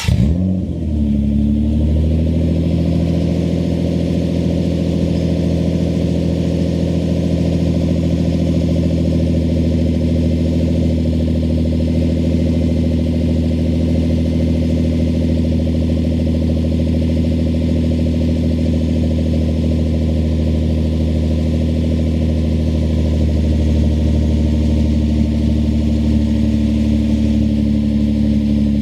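Nissan Altima Coupe's 3.5 V6 (VQ35DE) on a cold start through a Top Speed Pro 1 aftermarket dual exhaust: the engine catches and flares, the revs drop over the first couple of seconds, then it settles into a steady, fast cold idle.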